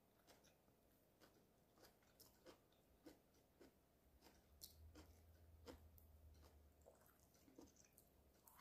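Faint close-up chewing of a mouthful of stir-fried beef: soft, irregular mouth clicks and smacks, with a faint low hum for a few seconds in the middle.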